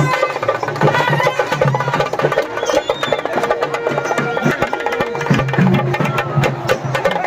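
Traditional percussion music: fast, dense drum strokes with a held melodic line over them.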